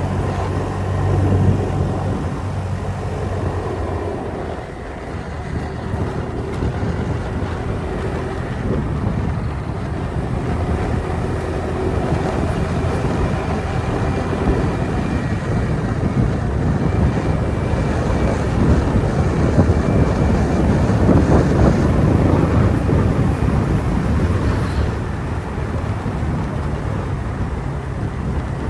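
Motorbike riding along: its engine running under a steady rush of wind on the microphone and road noise, a little louder for a few seconds past the middle.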